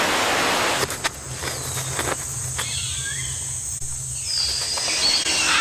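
Forest ambience: a steady high insect whine over a low hum, with a few short bird-like chirps in the middle and near the end, after a loud hiss that ends about a second in.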